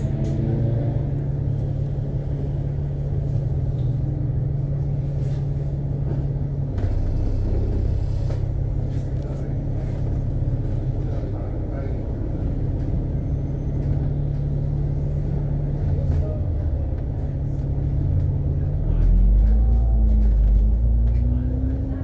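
Inside a KMB Alexander Dennis Enviro500 MMC double-decker bus running at speed, with a steady engine and road drone. Near the end it grows louder and its pitch rises and falls as the engine revs change.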